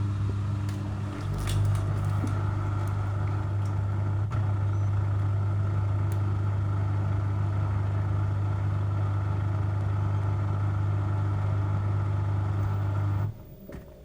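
LG washing machine's drain pump running: a steady low electric hum with a rushing, watery noise above it and a few small clicks, stopping abruptly about 13 seconds in.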